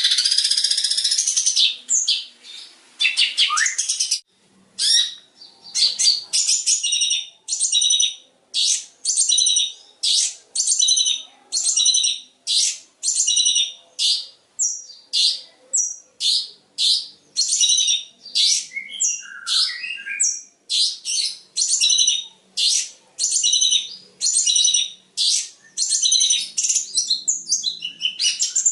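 Long-tailed shrike (cendet) singing: a dense, rapid warble for the first few seconds, then a long run of short, harsh repeated notes about twice a second, with the continuous warble returning near the end.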